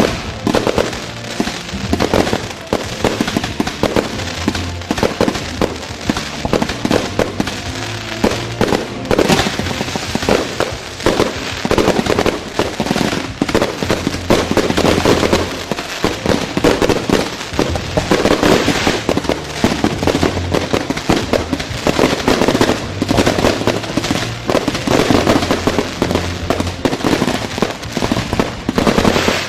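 A firework battery firing: rapid, continuous bangs and crackles of shots going up and bursting, with no break, over background music with a steady bass line.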